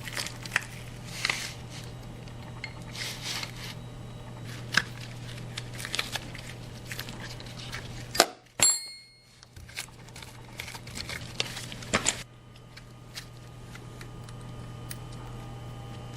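Scattered clicks, clinks and knocks of tools and metal parts being handled during motorcycle chain and sprocket work, over a steady low hum. The sound breaks off briefly about halfway through.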